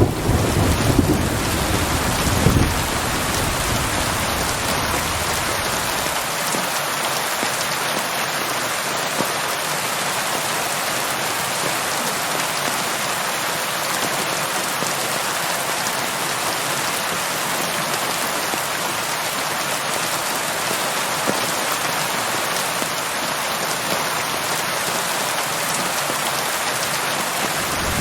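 Steady rain falling with an even hiss. The tail of a low thunder rumble dies away over the first few seconds.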